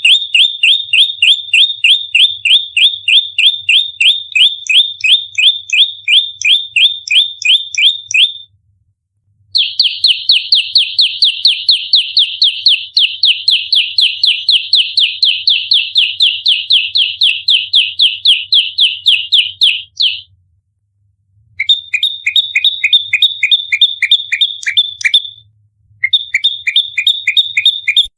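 Prenjak lumut (a small Indonesian warbler) giving its rapid fighting call: sharp, high chirps repeated about five a second in long unbroken runs, each note dropping in pitch, with brief silent breaks between runs. This dense 'nembak rapat' volley is the agitated territorial call used to lure and train the species.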